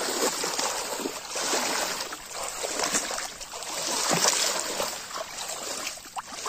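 Water splashing and sloshing around a small boat, with a few brief splashes.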